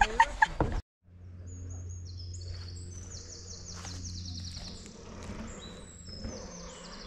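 Songbird singing fast trilled phrases of high, rapidly repeated notes that step down in pitch, over a low steady hum.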